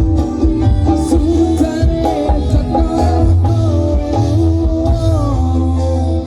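Live band music with a heavy, steady bass line, guitar and a sung melody.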